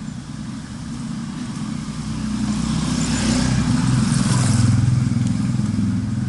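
Engine of a motor vehicle passing close by, growing louder to a peak about four to five seconds in, then easing off.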